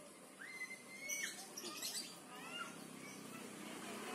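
Small birds calling: one held whistled note lasting about a second near the start, then a few short chirps. Under them is a faint scratchy rustle of hands working dry rice-husk potting mix in a planter bag.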